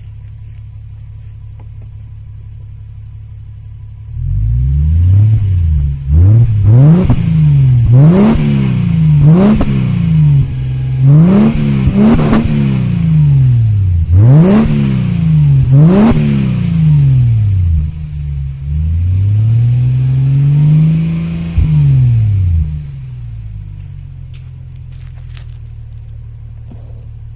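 Subaru Legacy 3.0R's flat-six idling through an aftermarket ROAR rear muffler, then revved in about eight quick throttle blips and one slower, longer rev before settling back to idle. Sharp cracks come with several of the rev peaks.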